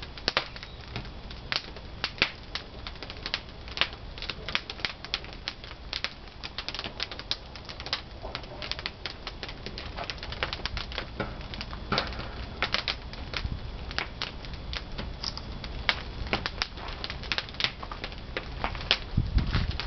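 Peeled pine firewood crackling and popping as it burns in a traditional wood-fired kiln: dense, irregular sharp pops over a steady low noise.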